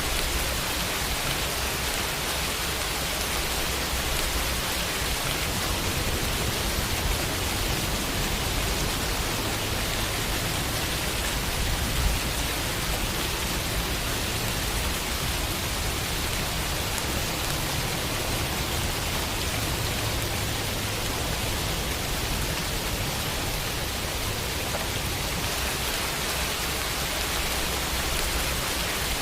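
Steady rain falling on a window: an even, continuous hiss of drops with a low rumble underneath. One drop taps a little louder about twelve seconds in.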